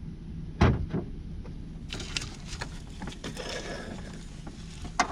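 Mechanical work sounds: a heavy knock about half a second in, followed by scattered short metallic clicks and knocks from tools and parts being handled.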